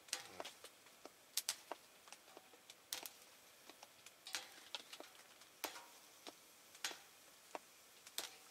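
Wood campfire crackling, with sharp irregular pops a few times a second over a faint hiss.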